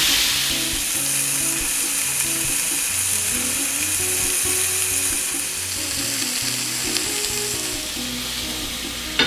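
Sliced tomato, chili and onion sizzling on a hot grill pan in a steady hiss, with a sharp click near the end.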